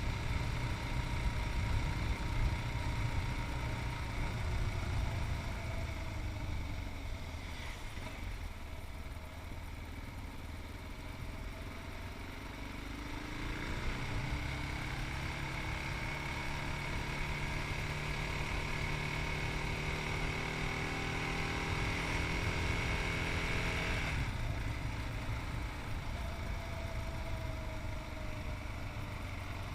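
Yamaha MT-03's 660cc single-cylinder engine running under way, heard over low wind rumble. Its pitch climbs as it accelerates about halfway through, holds steady, then drops off suddenly when the throttle is closed about 24 seconds in.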